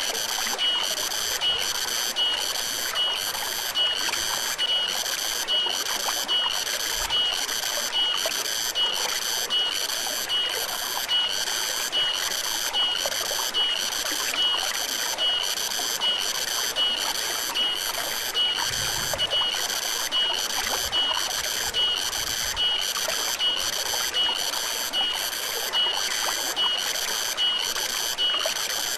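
Forest stream flowing steadily, with a high-pitched insect call pulsing evenly a bit more than once a second over it.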